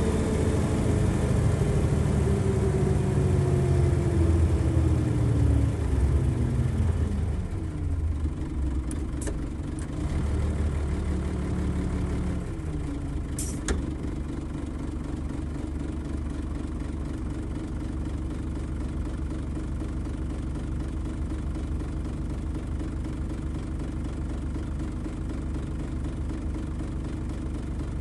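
Nissan Diesel FE92TA bus's turbocharged diesel engine coming off the revs, its pitch falling steadily over the first seven seconds and stepping down again about halfway, then settling to a steady idle. A few short clicks come around nine seconds in and a sharper one about halfway.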